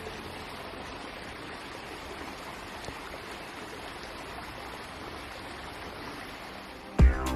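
Steady rush of running water from a small spring-fed stream. Music with a strong beat cuts in suddenly near the end.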